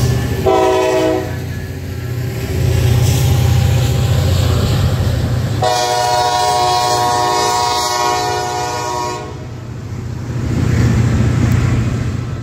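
Norfolk Southern freight train passing close by: diesel locomotives and then empty flatcars rumbling along the rails. A train horn gives a short blast about half a second in and a long blast from about five and a half to nine seconds in.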